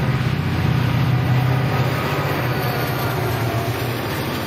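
Diesel train passing close by: a steady low drone of the locomotive engine over the broad rumble of the train on the rails.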